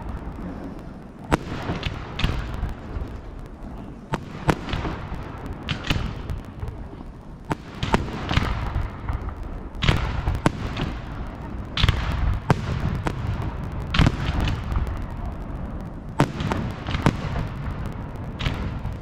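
Fireworks display: sharp bangs of bursting shells at irregular intervals of a second or two, over a steady low rumble.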